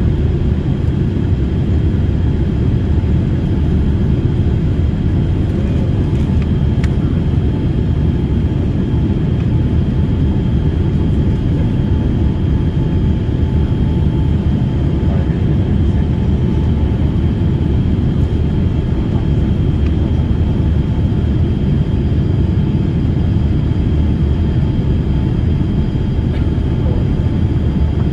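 Steady cabin noise of an airliner in flight, a loud low rumble of jet engines and airflow heard from inside the passenger cabin, with faint thin steady tones above it.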